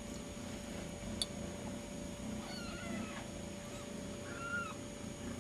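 Newborn kittens mewing: a few short, thin, high-pitched cries, around two and a half and four and a half seconds in.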